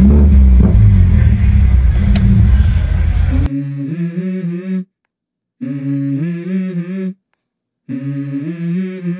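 A loud, deep car-engine rumble heard inside the cabin, cut off abruptly about three and a half seconds in. It is followed by a voice humming a stepped melody in short phrases with brief pauses: the a cappella opening of a song.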